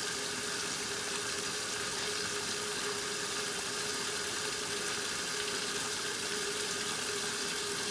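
1969 Westinghouse washing machine agitating its wash load with its ramp action agitator: a steady motor hum over the churning and splashing of the water in the tub.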